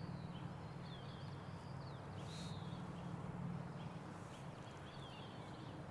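Faint outdoor ambience: scattered short bird chirps over a steady low hum.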